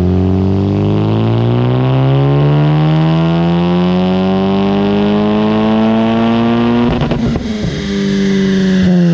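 Honda Civic Type R FK8's turbocharged 2.0-litre four-cylinder on a full-throttle dyno pull. The exhaust note climbs steadily in pitch for about seven seconds, then breaks into a brief crackle as the pull ends, and the revs hold before starting to fall.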